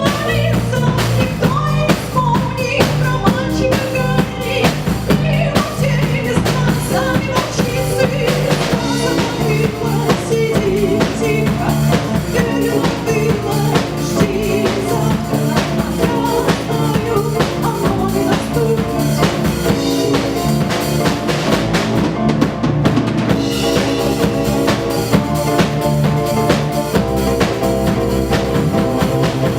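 Live band playing an instrumental passage: a drum kit with bass drum and snare keeps a steady beat under sustained instrumental lines and a strong low bass.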